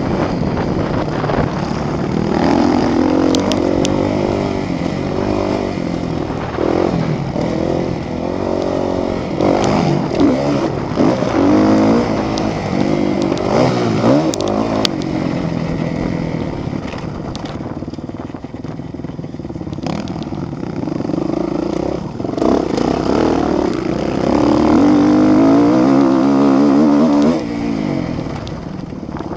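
Several motocross bikes' engines revving hard and easing off, the pitch climbing and falling over and over as they throttle and shift. The engines are loudest about 24 seconds in and drop off near the end.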